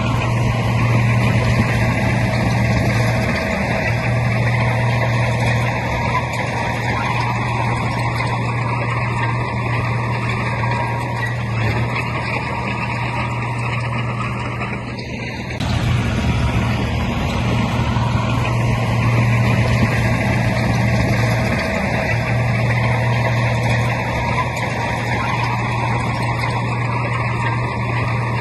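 Heavy diesel earthmoving machinery running steadily with a low hum, easing off briefly about halfway through and then picking up again.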